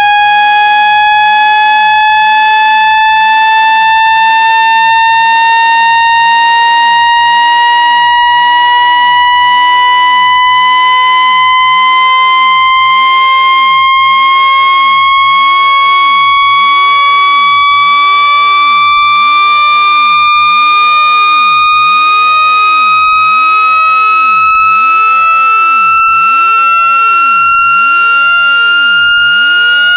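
Loud synthetic buzzy tone gliding slowly and steadily upward in pitch: a speaker-cleaning tone sweep, played so the phone's speaker vibrates water and dust out of its grille.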